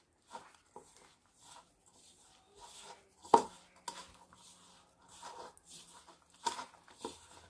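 A thick spice paste being stirred in a bowl: faint, uneven scraping with a few short knocks against the bowl, the sharpest about three and a half seconds in.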